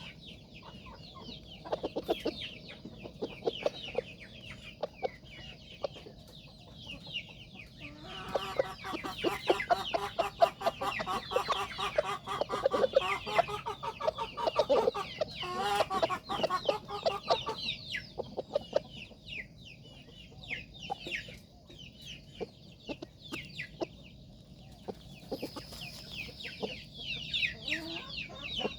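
Chickens clucking and calling, with many short, high, falling chirps throughout and a busier, louder stretch of calls in the middle.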